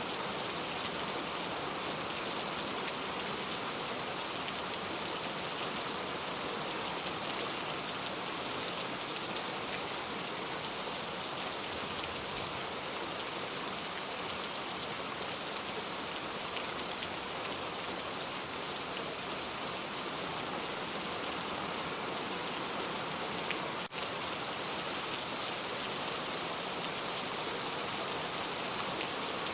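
Steady rain falling, an even hiss of drops with no change in strength, broken by a split-second dropout late on.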